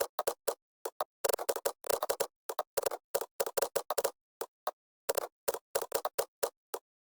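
Typing on a computer keyboard: irregular runs of quick keystroke clicks, with short pauses between the runs.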